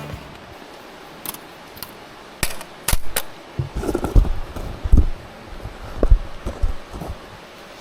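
A series of sharp clicks, five in the first three seconds, followed by a cluster of knocks and thuds, as of objects being handled and set down.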